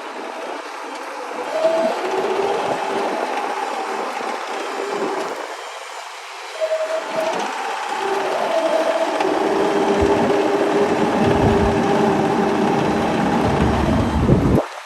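Bobcat E55 compact excavator running, its diesel engine and hydraulics giving whining tones that shift in pitch as it works. A heavier low rumble builds about two-thirds of the way through, then the sound cuts off suddenly just before the end.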